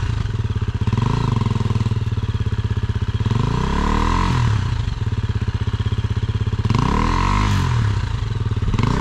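Dirt bike engine running at low speed under load, its revs rising and falling several times as the throttle is worked.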